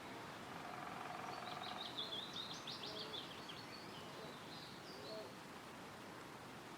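A small songbird sings one quick phrase of rapid high notes about a second in, lasting roughly two seconds, and gives a fainter short call near the end. Underneath is a steady soft hiss of wind rustling through woodland trees.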